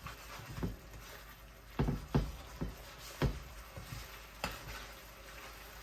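A cooking utensil knocking and scraping against a frying pan while stir-frying and breaking up Cambodian stinky fish sauce with aromatics. There are about six sharp, irregular knocks over a faint frying sizzle.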